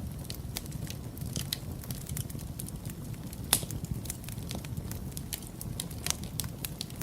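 Wood fire burning in a fireplace: a steady low rumble of flames with irregular sharp crackles and pops, one louder pop about halfway through.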